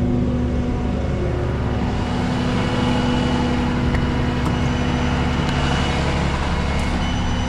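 Diesel engine of a Peterbilt rollback tow truck running steadily.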